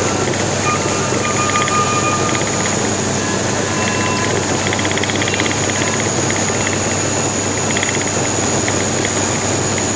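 Steady cabin drone of an ATR 72 turboprop airliner's engines and propellers, heard from inside the cabin. A low hum sits under a constant high-pitched whine.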